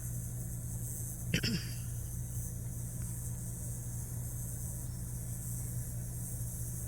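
Steady low rumble with a constant high hiss over it, and one brief short sound about a second and a half in.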